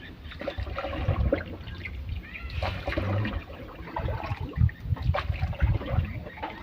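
Water sloshing and splashing against a small boat, with irregular low rumbles of wind buffeting the microphone and scattered small knocks.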